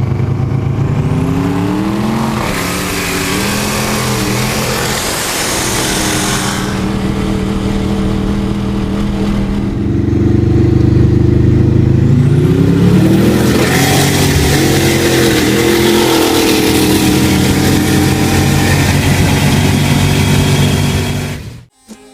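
Twin-turbocharged Mustang drag cars running at full throttle, their engine pitch climbing through the gears. This happens twice: a first pull in the opening seconds and a louder one about halfway through, with a rushing hiss over the engine note. The sound cuts off suddenly near the end.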